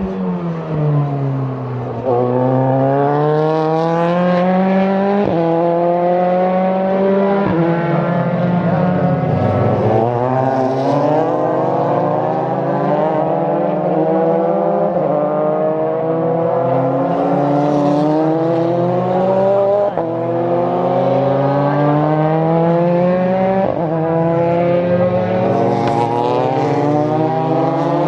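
Several F4 formula race cars running through a chicane one after another, their engine notes overlapping. Each engine's pitch falls as the car slows into the corner, with the odd sharp gear-change step, then climbs as it accelerates out.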